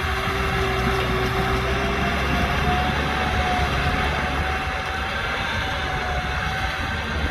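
Kubota M6040SU tractor's four-cylinder diesel engine running steadily, with a thin whine over the engine that steps up in pitch about three seconds in.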